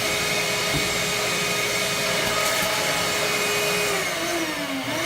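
Vacuum cleaner running steadily with a whine, sucking lint from the duct behind a dryer's lint trap. About four seconds in it is switched off, and its motor pitch falls as it spins down.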